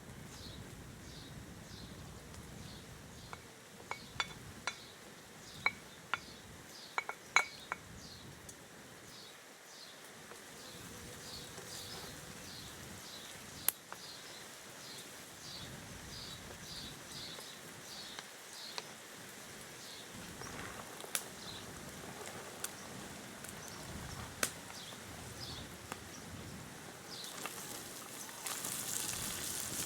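Dishes and utensils clinking, a quick series of sharp clinks about four to eight seconds in and a few single ones later, over a regular high chirping repeated about twice a second throughout. A hiss swells near the end.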